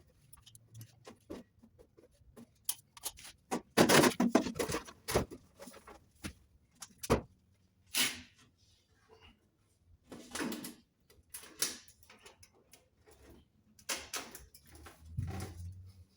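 Irregular knocks, clicks and rattles of a metal roof plate being handled and fitted in place, with a dense cluster of knocks about four seconds in.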